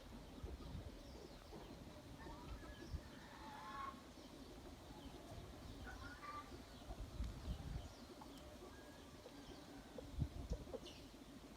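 Gusting wind rumbling on the microphone, with scattered short bird chirps and calls in the background.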